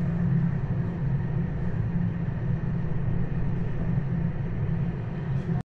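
Steady low rumble of a train running, heard from inside the carriage; it cuts off abruptly near the end.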